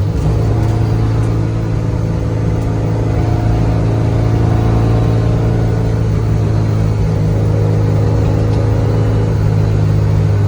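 Built Subaru Impreza's flat-four engine running at steady revs under light throttle, a constant drone heard from inside the stripped-out cabin.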